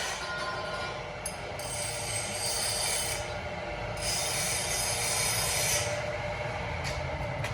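Rough rubbing and scraping noise in uneven strokes, each lasting a second or two with short breaks between.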